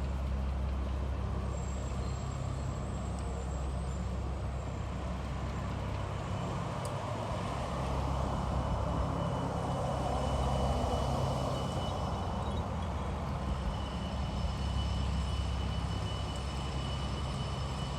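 Street traffic with heavy vehicles: a steady low engine rumble, with a vehicle passing louder near the middle.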